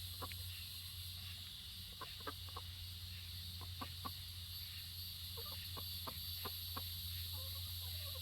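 Chickens clucking softly: short, scattered clucks in small clusters over a steady low hum and a high hiss.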